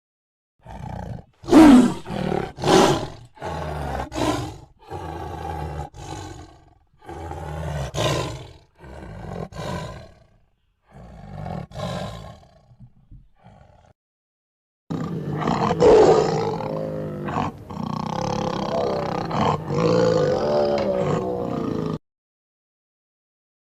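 Tiger roaring: a run of separate roars with silent gaps between them, then a longer unbroken stretch of roaring that starts and cuts off abruptly, as from spliced recordings.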